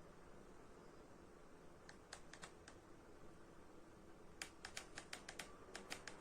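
Faint, quick light clicks over a quiet hiss: a few about two seconds in, then a rapid run of about a dozen from about four and a half seconds in.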